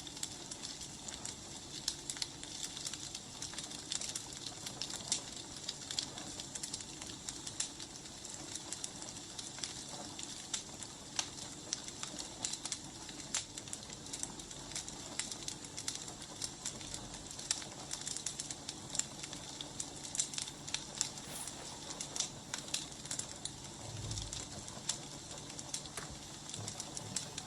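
Wood fire crackling: irregular small pops and snaps over a soft hiss, with a brief low thump near the end.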